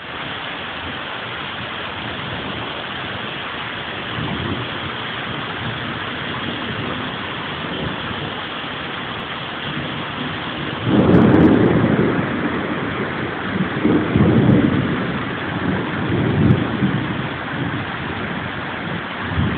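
Heavy rain falling with a steady hiss. From about halfway through, louder low rumbling swells come and go several times over it.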